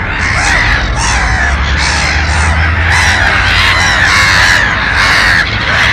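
A flock of crows cawing, many harsh calls overlapping without a break, over a low steady rumble.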